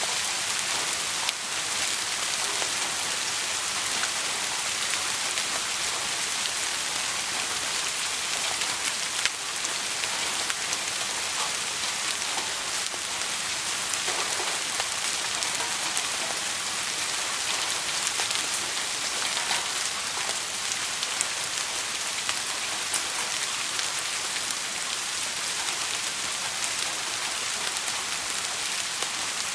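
Steady rain falling on a surface, an even hiss with a few scattered faint ticks.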